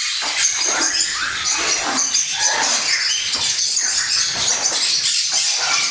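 Many small parrots chattering together: a dense, continuous stream of overlapping high chirps and squeaks.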